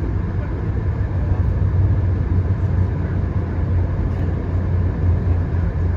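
Via Rail passenger train running along the line, heard as a steady low rumble of ride noise from inside a coach.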